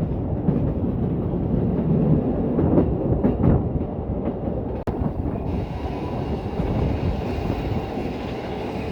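Metre-gauge train running along the track: a steady rumble of wheels and carriages with irregular knocks. A steady hiss joins about halfway through.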